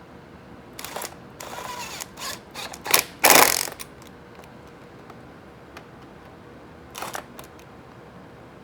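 Small hand-tool and parts handling at a motorcycle workbench: a run of light clicks and scrapes as small screws are worked with an Allen key, with a louder short rasp about three and a half seconds in and one more brief click-scrape near the end.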